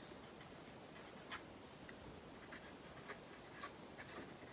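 Near silence with a few faint, scattered light ticks and scratches from small items being handled at a table.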